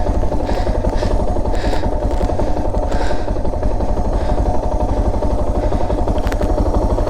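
Motorcycle engine running steadily at low revs while the bike creeps along at walking pace, held in the clutch's friction zone with barely any throttle.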